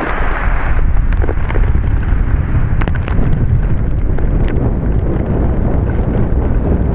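Strong thunderstorm wind gusts buffeting the microphone in a loud, steady low rumble, with a few scattered sharp ticks. A hiss of rain drops away about a second in.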